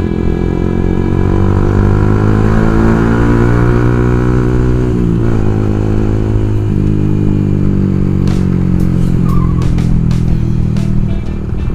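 Yamaha R15 V2's single-cylinder four-stroke engine running through an aftermarket Leo Vince racing exhaust while riding, a loud, bassy note. The engine note holds steady, dipping briefly and climbing again at the start and about five seconds in.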